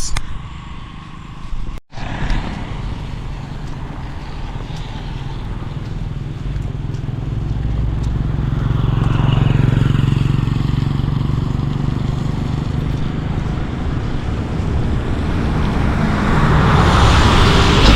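Road traffic on a wet tarmac road in heavy rain: motor vehicles with engine rumble and tyre hiss swell past around the middle and again near the end, over a steady rush of rain.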